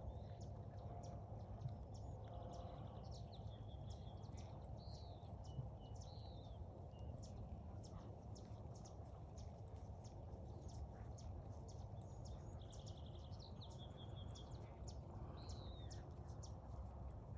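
A songbird singing the same short phrase twice, about ten seconds apart: a fast trill followed by a few slurred, arching notes. Under it runs a low steady outdoor rumble with faint scattered ticks.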